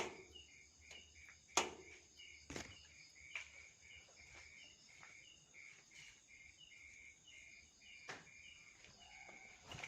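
Insects chirping, likely crickets, in a quiet, even repeating pattern of about two chirps a second, with a few sharp knocks, the loudest about a second and a half in.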